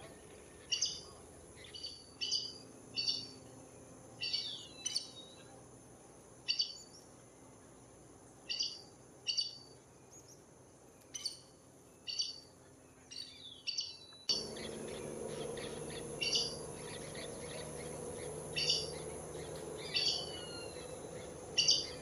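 Bird calling: short, sharp high notes repeated about once a second at irregular intervals, some doubled and a few sliding downward. The background hiss steps up suddenly about fourteen seconds in.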